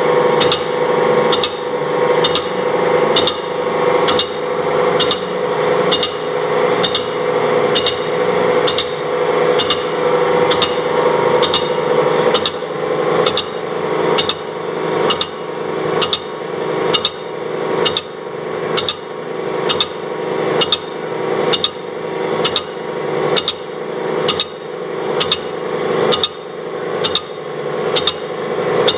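Horizontal boring mill skimming a casting: a sharp tick about every 0.8 s as the cutting tool strikes the work once per spindle turn, over the steady hum of the machine running.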